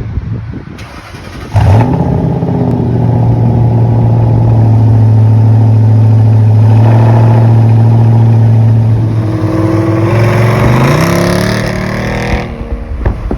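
A 2006 Lincoln LS's 3.9-litre V8 with the mufflers deleted starts up suddenly, loud, and runs at a steady, fast idle typical of a cold start. Near the end the engine note rises in pitch, and then it cuts off abruptly.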